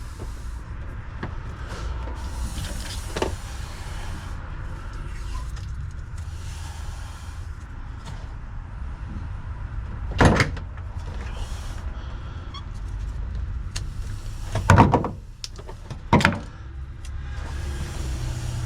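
Handling and fitting a car's tail light assembly: a few sharp clunks and knocks, the loudest about halfway and two-thirds of the way through, over a steady low rumble.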